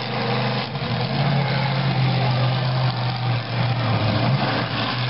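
Monster truck engine running at low, steady revs, with two brief dips in pitch.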